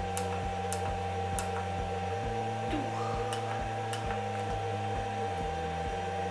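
Steady electrical hum with a regular low ticking about three times a second, and a few sharp clicks that are the VFD's keypad buttons being pressed while a parameter value is entered.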